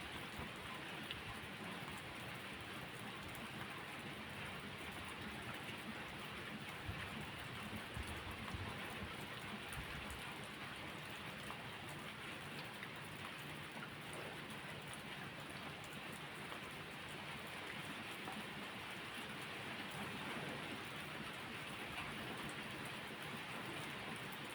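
Steady rain falling, an even hiss with a few faint ticks of drops scattered through it and a couple of soft low swells along the way.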